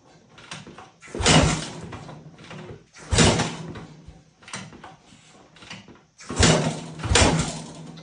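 Honda XR pit bike with a freshly rebuilt BBR big-bore 120 engine being kick-started four times, each kick turning the engine over briefly without it catching and running. The last two kicks come close together.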